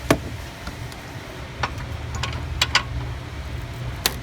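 Pliers clicking against metal hose clamps on the fuel filter lines: about six short, sharp metallic clicks spread irregularly over a low steady hum.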